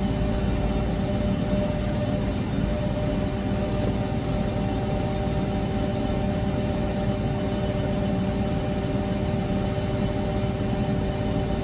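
CNC lathe running, a steady mechanical hum with several steady tones over a low rumble.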